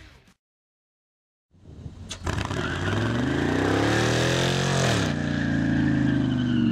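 LS V8 engine of a pickup truck revving up, its pitch climbing for about two seconds, then dropping back and running steadily.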